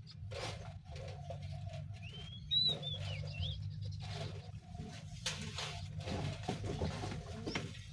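Birds calling, with a whistled call that rises and falls about two and a half seconds in. Underneath are a steady low hum and scattered clicks and knocks.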